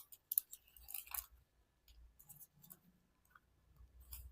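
A sheet of origami paper crinkling and crackling as it is folded and creased, most of it in the first second and a half, then a few faint ticks.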